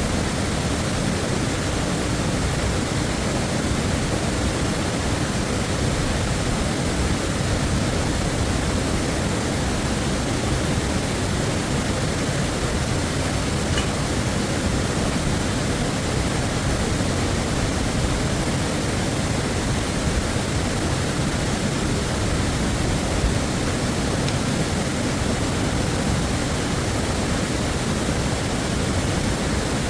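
Waterfall crashing steadily, a dense unbroken rush of water.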